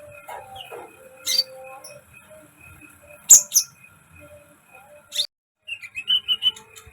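Konin bird calling: sharp high chirps every couple of seconds, falling whistled notes near the start, and a quick run of short notes near the end, over faint steady background tones.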